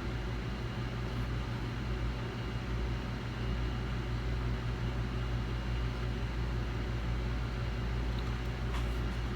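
Steady low hum with a hiss over it, of a small machine running, and a faint click near the end.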